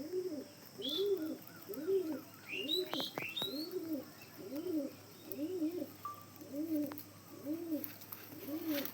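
Domestic pigeon cooing in a steady repeated rhythm, about two coos a second. A few short, high chirps come in around three seconds in.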